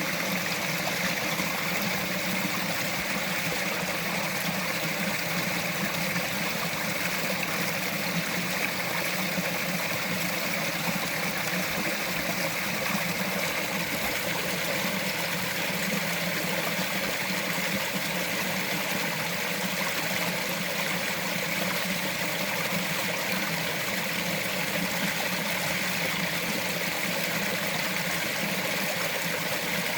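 Small mountain forest stream running over rocks, a steady burble and trickle of water.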